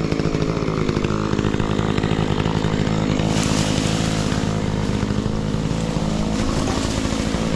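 Makita chainsaw running steadily while cutting through a branch, its pitch sagging and recovering under load, with a louder, harsher stretch about three seconds in.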